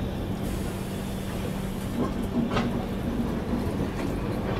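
Passenger train rail noise: a steady low rumble with a constant hum, and a few short clicks around the middle.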